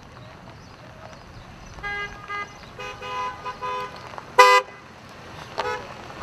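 Vehicle horns honking in a series of short toots, starting about two seconds in, with one loud blast a little past the middle.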